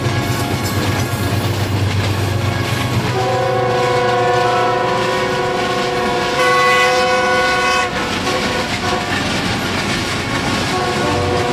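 Diesel locomotive hauling passenger coaches past, with a steady rumble of engine and wheels. Its horn sounds one long blast from about three seconds in to about eight seconds, getting louder partway through, and sounds again near the end.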